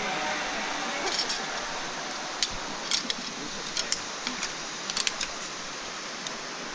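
Metal zip-line gear clinking in scattered sharp clicks and jingles over a steady hiss.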